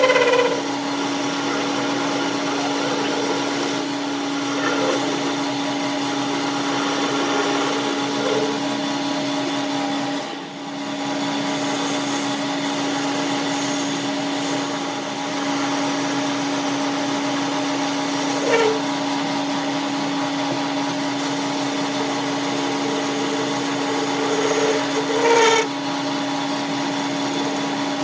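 A workshop power tool's electric motor running steadily with a constant hum, dipping briefly about ten seconds in, with a few short higher-pitched sounds near the end.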